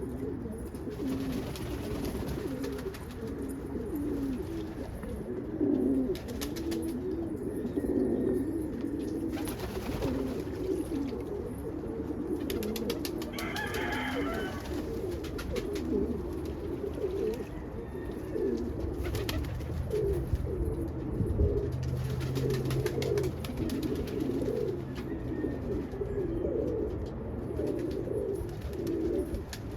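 A flock of pigeons cooing continuously, many birds overlapping, with a few short clicks and flutters in between.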